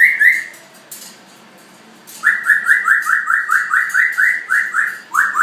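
A pet parrot giving a fast run of short, evenly spaced whistled notes, about three or four a second. The run breaks off just after the start and picks up again about two seconds in.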